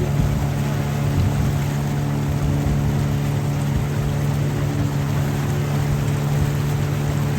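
Motorboat engine running steadily at one constant pitch, with a rushing noise of water and wind over it.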